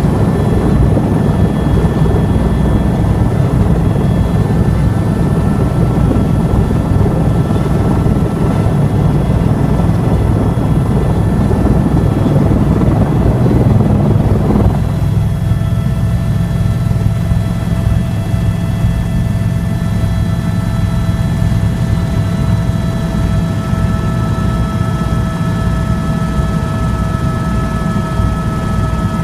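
Tour helicopter running loudly, with a deep rotor throb and pulsing blades. About halfway through, the broad rushing noise drops away and the turbine's steady whine, several pitched tones together, comes forward over the throb.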